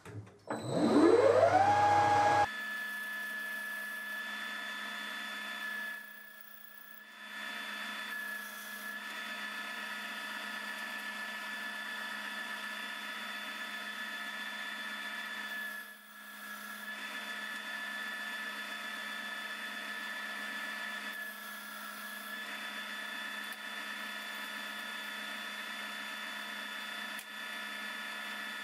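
Metal lathe spindle starting up, its whine rising in pitch over about two seconds, then running steadily at speed while turning down a short spigot. The level dips briefly twice.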